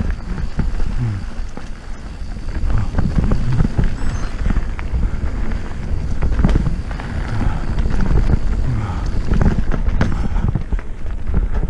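Wind buffeting the microphone of a mountain bike rider's camera on a fast descent, with frequent knocks and rattles from the bike over rough trail.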